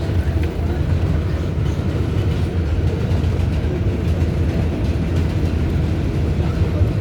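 An R188 subway car on the 7 line running between stations, heard from inside the car: a steady low rumble of wheels on rail.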